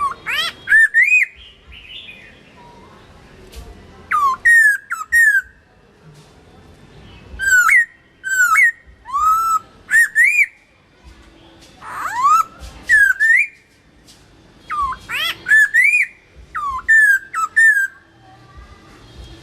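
Chinese hwamei (gabichō) singing: loud, clear whistled phrases of slurred notes, many notes repeated two or three times in a row, in about five bursts separated by short pauses.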